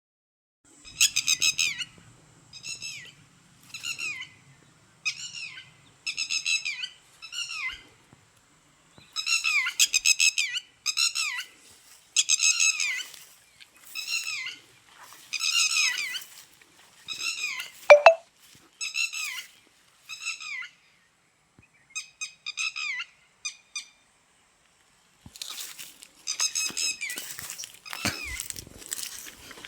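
Birds calling: short, harsh, downward-sliding calls repeated about once a second in runs with pauses, one louder call sweeping low about two-thirds of the way in. Near the end a dense, rapid rustling flurry, like wings flapping.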